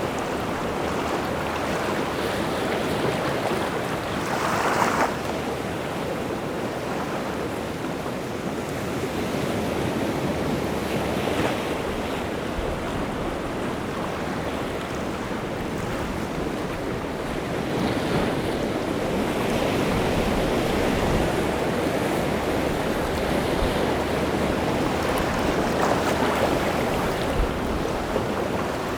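Rough sea surf breaking and washing on the shore, a continuous rushing with waves swelling louder every several seconds, stirred up by strong wind. Some wind buffets the microphone.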